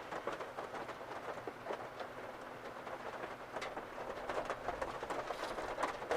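Heavy typhoon rain pattering densely on a car, with a faint steady hum underneath.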